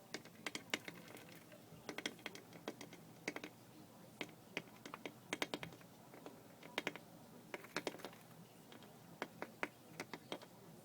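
A small red finch pecking at window glass: quick runs of light taps, several at a time, with short pauses between.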